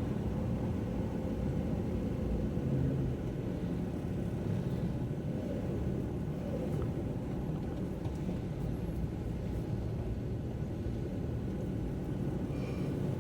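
Car driving on a wet road, with a steady low rumble of road and engine noise.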